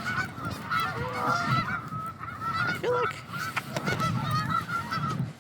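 A large flock of geese honking, many overlapping calls at once.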